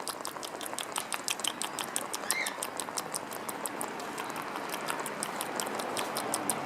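A rapid series of sharp clicks, about eight to ten a second, thinning out after the first few seconds, with one short rising bird chirp about two and a half seconds in, over a steady rushing background of wind noise.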